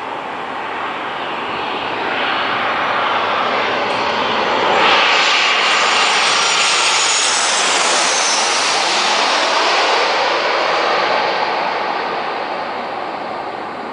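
Jet airliner's turbofan engines passing by on landing, swelling to a peak about five seconds in. The engine whine drops in pitch as the jet goes past, then the sound fades away.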